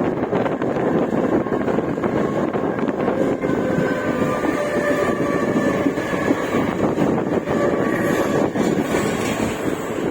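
Mumbai suburban electric local train running into the station, a steady rolling rumble with many small clicks and faint whining tones that come and go in the middle.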